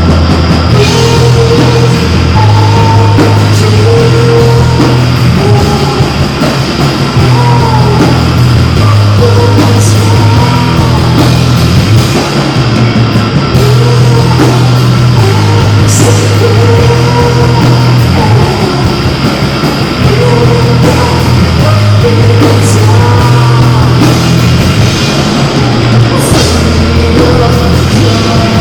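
Live rock band playing loud, with a repeating bass riff under guitar and drums and a few cymbal crashes.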